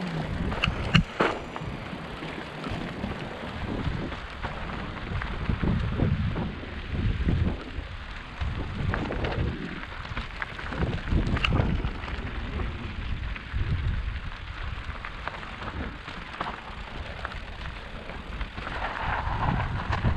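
Mountain bike riding over a rough trail: tyres crunching on stones, the bike rattling with frequent knocks and clicks, and irregular low rumbling of wind buffeting the microphone.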